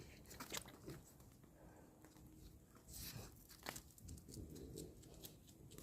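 Faint campfire crackling: wood burning with irregular sharp pops and snaps over a low hiss.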